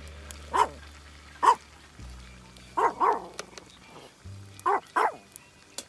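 A dog barking: about six short barks, singly and in quick pairs, over background music with a low bass line.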